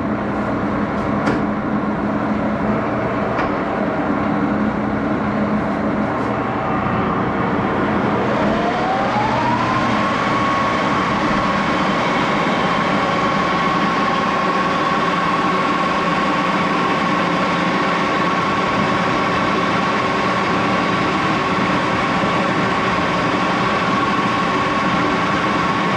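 Axelson engine lathe running steadily at its higher spindle speed, with a few light clicks early on. About eight seconds in, a whine rises in pitch over a couple of seconds and then holds steady.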